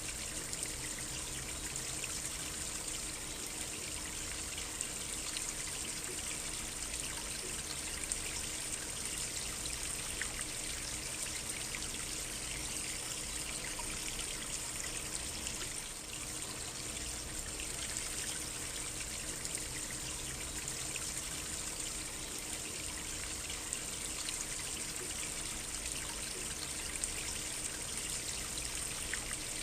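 Small stream running and trickling steadily, a continuous rushing with fine splashing detail and no rise or fall.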